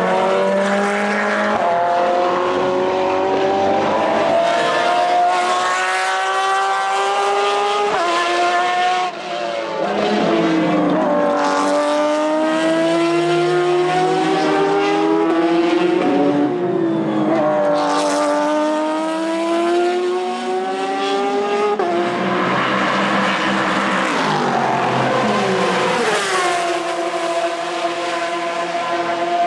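Porsche 911 RSR GTE's 4.0-litre flat-six racing engine on open exhaust, loud, pulling hard with its pitch climbing and dropping suddenly at several upshifts, with lifts and downshifts in between.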